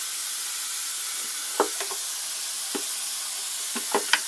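Water running steadily with a hiss, as when filling a humidifier tank. A few light clicks and knocks of hard plastic parts are handled over it, a quick pair near the end.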